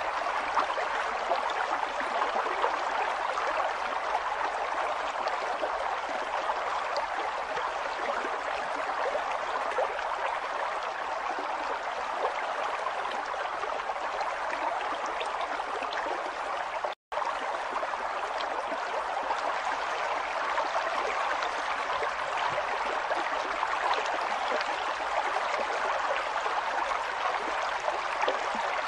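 River water flowing steadily over stones, a continuous rushing with fine gurgles and splashes. About seventeen seconds in it cuts out for a split second.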